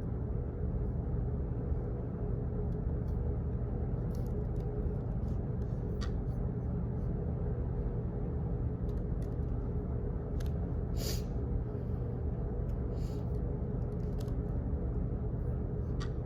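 Office background noise: a steady low rumble with a faint hum, scattered faint irregular clicks, and a short hiss about eleven seconds in.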